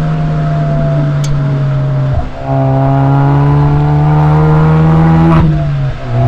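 Exhaust note of a Suzuki Swift Sport ZC33S's 1.4-litre turbocharged four-cylinder through a SACLAM muffler, recorded from outside the car. The note holds steady, breaks off about two seconds in, then rises steadily in pitch as the car accelerates, and breaks again near the end.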